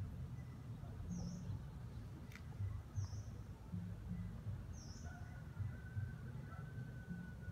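A bird giving three short, high chirps about two seconds apart, over a low steady rumble.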